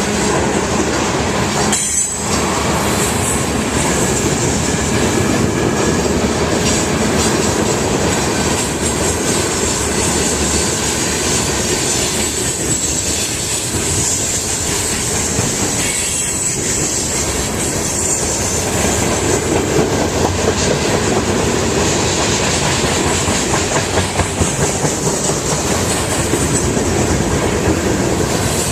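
Freight train cars rolling past, steel wheels running on the rails with a steady high-pitched squeal.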